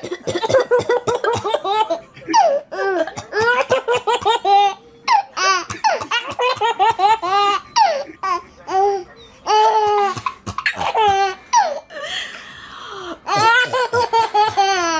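A baby laughing hard in repeated bursts of high-pitched giggles, with short gaps between them. A brief breathy hiss comes about twelve seconds in.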